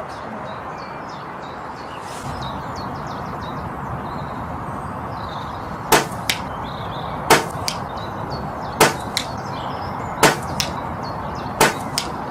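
Brocock Concept PCP air rifle firing five shots about a second and a half apart, starting about six seconds in, each sharp crack followed a moment later by a fainter click. Faint birdsong sits over a steady wind-like hiss.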